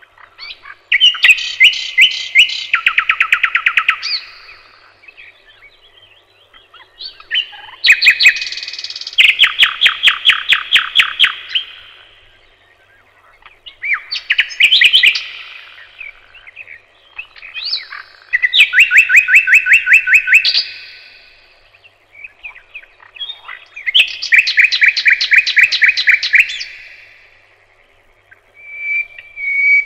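A songbird singing loud, close song phrases, each a few seconds of fast trills that jump between pitches, five times over with short pauses between.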